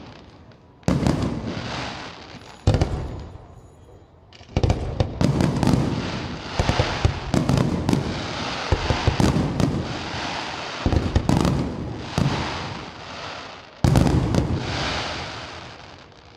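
Fireworks display: aerial shells bursting with sharp bangs, one about a second in and another near three seconds, then a rapid run of overlapping bangs, and a last big bang near the end that trails off.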